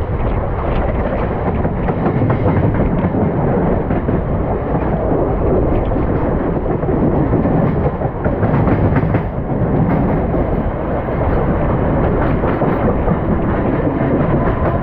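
Mumbai suburban electric local train running at speed, heard from its open side: a steady rumble with clatter of wheels on track. Another local train passes close alongside on the next track in the second half.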